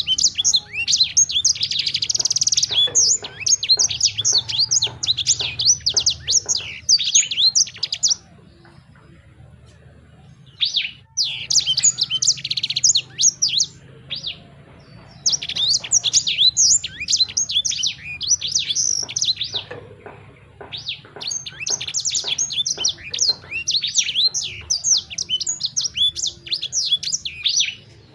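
A songbird singing phrases of rapid, high chirps and trills, several seconds long each, with short pauses between them.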